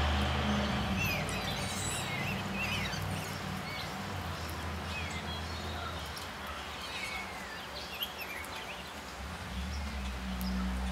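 Wild songbirds chirping and calling in short, scattered notes over a low steady hum.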